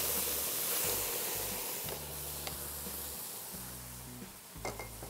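Tomato purée spooned into a kadai of hot sesame oil with roasted shallots and garlic, hissing and sizzling as steam rises. The hiss is strongest at first and slowly dies down, with a few light clicks.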